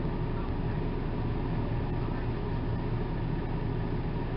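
A steady low hum with no breaks or changes, like a machine or appliance running in the background.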